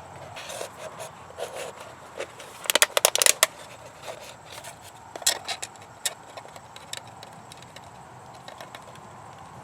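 Tools and parts clicking, knocking and scraping as they are handled, with a quick burst of loud clicks about three seconds in and another sharp click a couple of seconds later.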